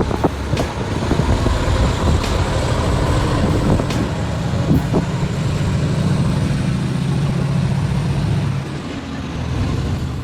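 Heavy truck engine running with a steady low drone, with a few sharp clicks over it; it eases slightly near the end.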